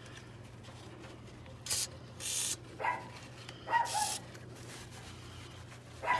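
A dog barking a few short times, with several brief hissing bursts in between, over a steady low hum.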